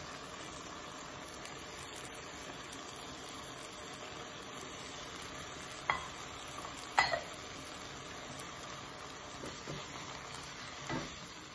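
Diced white radish, carrot, onion and beef frying in a pot: a steady sizzle, with two sharp clicks about six and seven seconds in.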